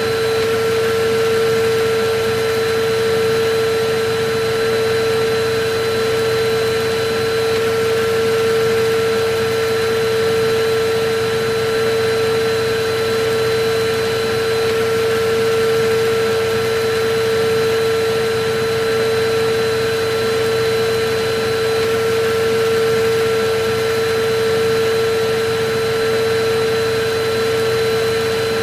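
Electric vacuum cleaner running steadily: a constant motor whine over an even rushing hiss. Its loudness swells and eases slightly every few seconds.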